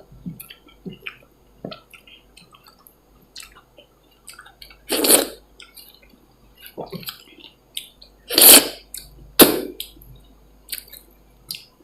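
Close-miked eating sounds: wet chewing with small smacks and clicks of the mouth, and three louder, noisier mouth sounds about five, eight and a half and nine and a half seconds in.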